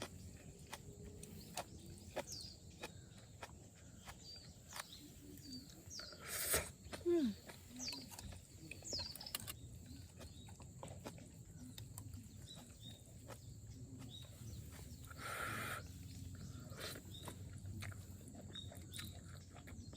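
Quiet outdoor ambience with a few short bird chirps, scattered small clicks and knocks, and two brief rustling bursts, one about six seconds in and one near fifteen seconds.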